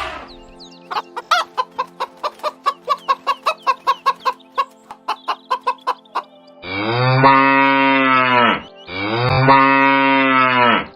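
A hen clucking in a rapid run of short clucks, followed by a cow mooing twice, each moo a long, low call of about two seconds.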